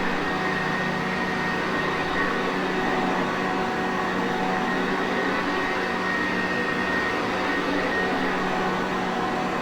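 Sanitaire Perfect upright vacuum cleaner running steadily: an even rush of air with a constant motor hum and a few held higher tones.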